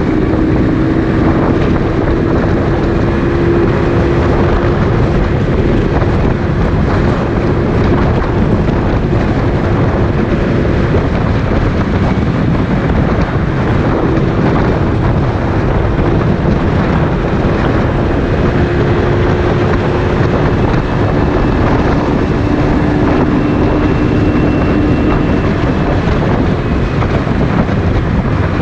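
Motorcycle engine running at a steady riding pace, with wind noise buffeting the microphone.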